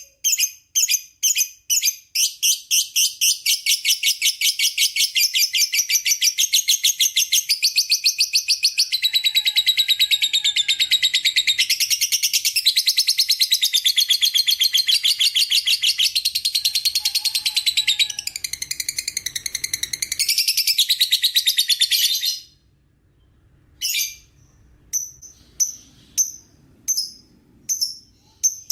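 Lovebird giving a long 'ngekek' chatter. A few separate high notes run into one unbroken, rapid string of shrill notes that lasts about twenty seconds and stops abruptly. Short separate chirps follow near the end.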